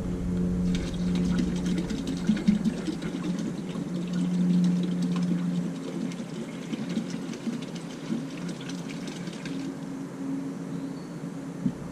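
Bass boat live well pumps running: a steady electric pump hum with water splashing into the live well during a vinegar-and-peroxide cleaning cycle. The splashing stops a couple of seconds before the end while the hum goes on.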